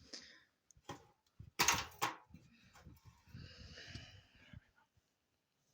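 Handling noise: a few light knocks, a louder knock or clatter about a second and a half in, then a soft scraping rustle that fades out.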